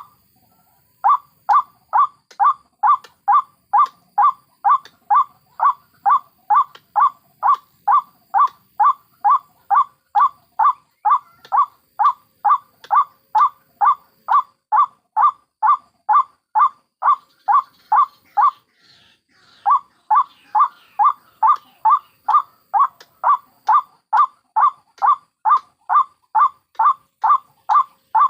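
White-breasted waterhen (ruak-ruak) calling: one short note repeated evenly at about three a second, breaking off twice briefly.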